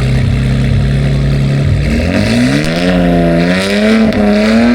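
A car engine running at a steady speed, then revved up about two seconds in and held at higher revs, wavering a little.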